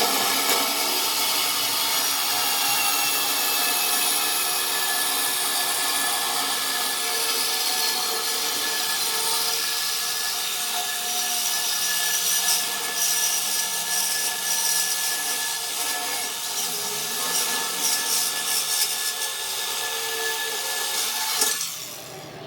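Power tool running steadily under load, a rasping grind with a high steady whine, shutting off abruptly near the end.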